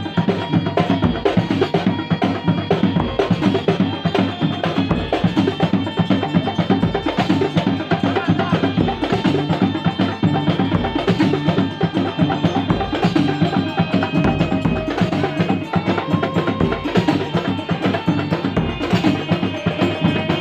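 Kuntulan music from a percussion ensemble: drums playing a fast, dense, unbroken rhythm, with held pitched tones over it.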